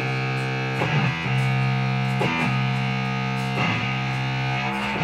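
Rock band playing with no singing: distorted electric guitar chords, each held and changing about every second and a half.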